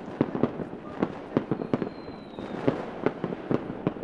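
Fireworks going off: a rapid, irregular series of sharp bangs and pops, with a faint high whistle falling slightly about halfway through.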